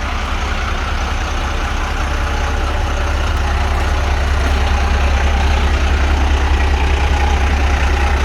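International DT466 inline-six diesel in an International 3800 bus idling steadily with a deep even rumble.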